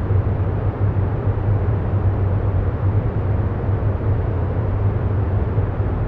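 Steady, unchanging low rumbling noise with a deep hum underneath and a soft hiss above it, an ambient background bed.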